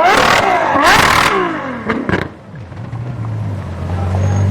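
A high-performance car engine accelerating hard, its pitch climbing and dropping with each quick gear change, with two loud blasts of exhaust noise in the first second and a half. The car falls away about two seconds in, and another engine's low, steady drone follows.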